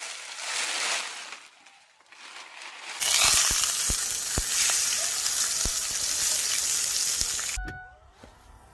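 Food sizzling over a campfire, with the fire crackling in sharp pops. It comes as two shots cut together, the second louder, and it stops suddenly near the end.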